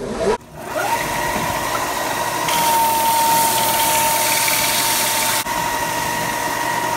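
Ryobi 4"x36" belt and disc sander motor coming up to speed about half a second in, then running with a steady high whine over a broad rushing hiss. A louder, hissier stretch in the middle is a pine board being sanded on the belt.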